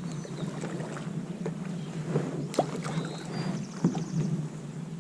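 Kayak paddling: paddle blades dipping and splashing in the water, with scattered light knocks, over a steady low hum.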